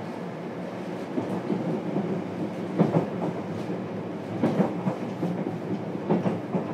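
JR Kyushu 303 series electric train heard from inside the car while running: a steady rumble of wheels on rail, with pairs of clicks about every 1.6 s from about three seconds in as the bogies' wheelsets pass over rail joints.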